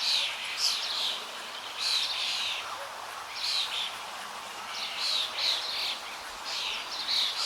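Bird calling over and over in short bursts of high chirping notes, a phrase about every second or so, over a faint steady outdoor hiss.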